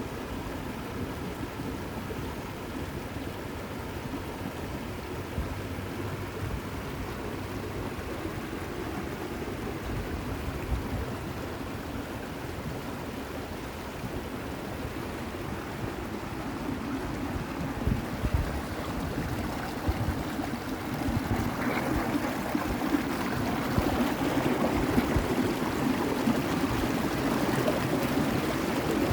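Running water of a stream, a steady rushing and splashing that grows louder about two-thirds of the way through.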